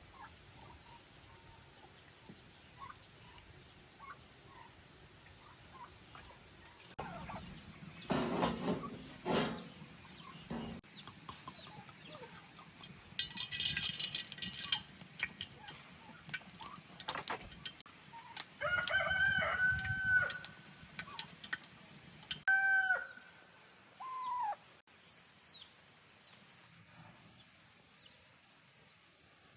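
A rooster crowing, one held call with a couple of shorter falling calls after it, with chickens clucking. Earlier come a few short, rough noisy bursts of unclear source.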